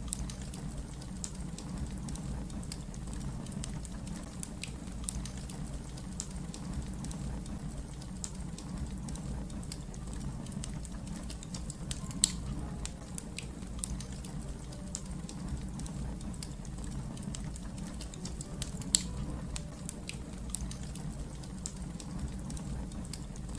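Wood fire crackling: irregular sharp snaps and pops over a steady low rumble of burning, with two louder pops about halfway through and again about three-quarters of the way through.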